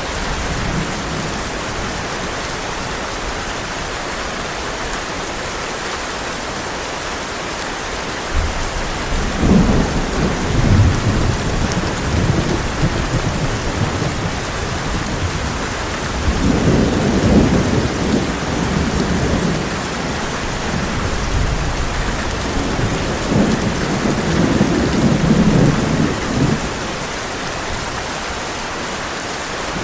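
Heavy rain drumming steadily on a tin roof. Thunder rolls low three times: about a third of the way in, again just past the middle, and once more near the end.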